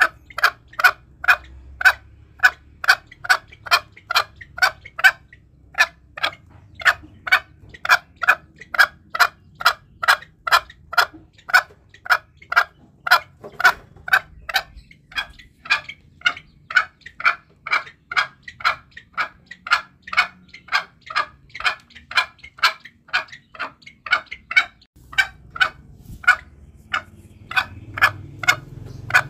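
Green junglefowl calling in a rapid, even series of short clucks, about three a second, with a couple of brief pauses; a lure recording for hunting junglefowl.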